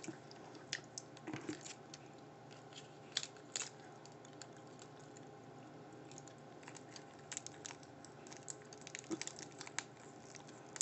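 Soft, scattered mouth clicks and smacks of chewing and finger-licking close to the microphone, with the crinkle and snap of a small plastic sauce packet being handled and torn open with the teeth near the end.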